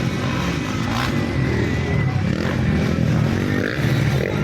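Several off-road motocross motorcycles racing, engines revving and changing pitch as they pass and shift gears.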